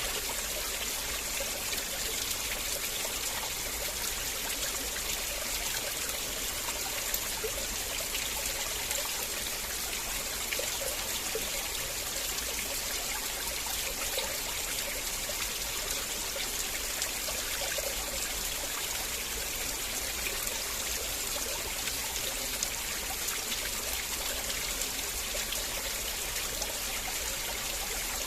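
River water flowing steadily, a continuous rushing with small splashes and trickles.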